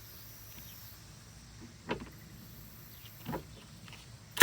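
A few short clicks as the cordless ratchet and socket are handled on the fender fasteners, ending in one loud knock; the ratchet's motor is not running.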